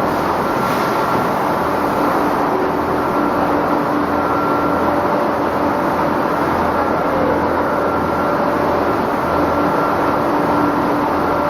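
Egg cooking and peeling production line machinery running steadily, a dense continuous mechanical noise with a constant low hum and a few steady tones.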